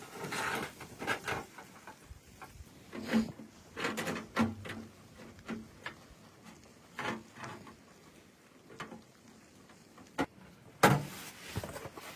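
Irregular knocks, clatter and rustling from objects being handled, with a sharp click about ten seconds in and a louder knock just after.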